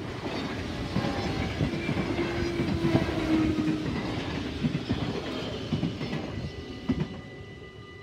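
NS double-deck electric passenger train passing over a level crossing: a rumble with wheels clattering over the rail joints, fading out after about seven seconds. The crossing's warning bell rings steadily behind it.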